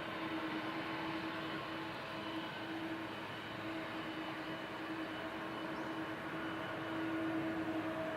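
Jet airliner engines heard from near the runway: a steady rushing noise with a steady humming tone running through it, growing a little louder near the end.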